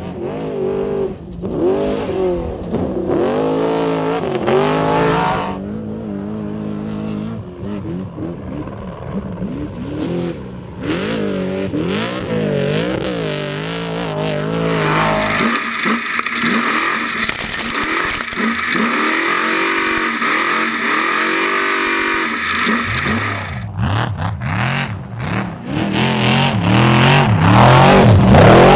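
Off-road race truck engines revving hard, their pitch rising and falling again and again. Near the end come a run of sharp cracks and the loudest moment of all.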